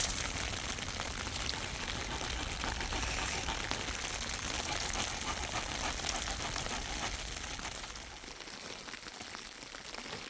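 Steady rain falling, an even patter of fine drops that drops slightly in level about eight seconds in.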